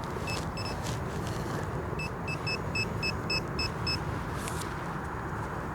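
Handheld metal-detecting pinpointer beeping while searching a dug hole for a buried target: two short high beeps near the start, then a quick run of about eight beeps, roughly four a second, as it homes in on the metal. A few short scuffs of soil are heard too.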